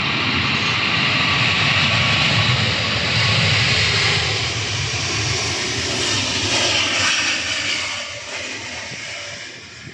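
An airliner's engines passing close, a loud, steady rush of engine noise that fades away over the last few seconds.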